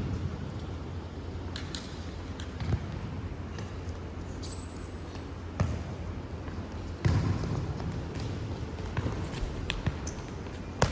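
A futsal ball being kicked and bouncing on an indoor court, with scattered sharp thuds a few seconds apart, over a steady low hum and one brief high squeak.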